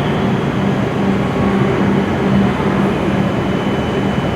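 W7 series Shinkansen train at the platform, a steady loud rumble of running noise with a low electrical hum and a faint high whine.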